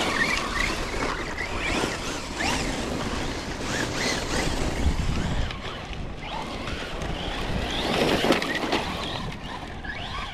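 Electric RC truck motors and drivetrains whining, rising and falling in pitch with the throttle, over wind noise on the microphone.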